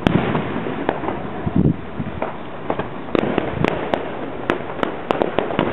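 Aerial fireworks: a sharp bang at the start and a deeper boom about a second and a half in, followed by a quick run of sharp crackling pops.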